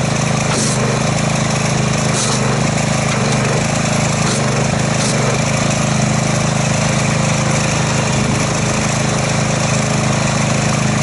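Gas-engine pressure washer running steadily, with a few short hisses of spray.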